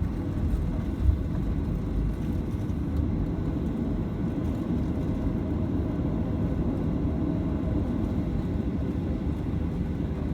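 Steady low rumble inside the passenger cabin of a Boeing 737-900 airliner.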